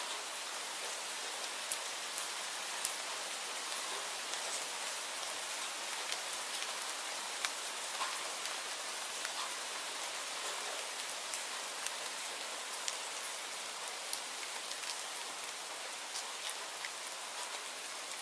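Steady rain falling, an even hiss with scattered short, sharp ticks.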